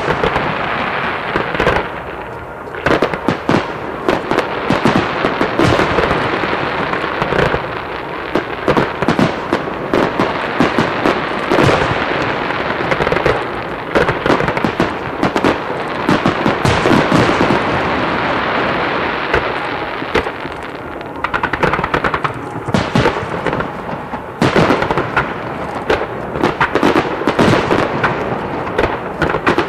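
Star mine fireworks barrage: shells bursting in rapid succession with booms over a continuous dense crackle. The bangs come thickest at the start and again in the last several seconds.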